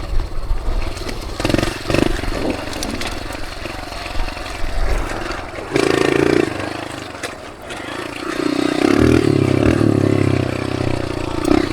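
Dirt bike engine running, with the revs rising briefly about six seconds in, dropping off, then held higher from about eight and a half seconds, over wind rush. A few knocks in the first three seconds.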